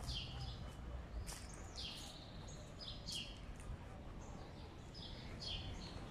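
Small birds chirping in short, high calls about once a second, over a steady low rumble of street noise.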